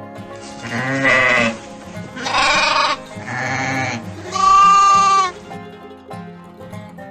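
Sheep bleating four times in quick succession, each call wavering in pitch, the last the loudest and longest, over background music.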